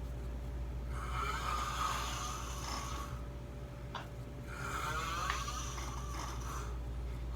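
A person snoring: two long snores of about two seconds each, over a steady low hum.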